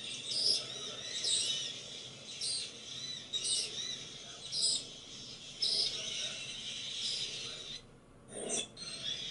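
Small birds chirping: short high chirps repeating every half second or so, with a brief soft thump near the end.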